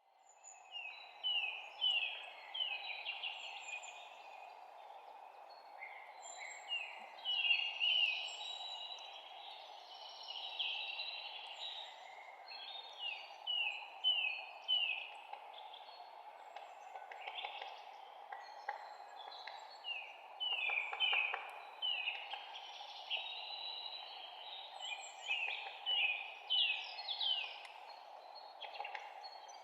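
Songbirds chirping in a spring forest: runs of short, quickly falling chirps, several birds overlapping, over a steady background hiss.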